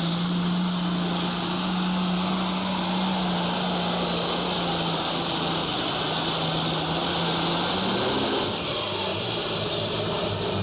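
Super stock pulling tractor's turbocharged diesel engine running flat out under load as it drags the weight sled, with a steady high whine over the engine note. About eight seconds in the whine falls away and the engine note drops as the tractor comes off the throttle at the end of its run.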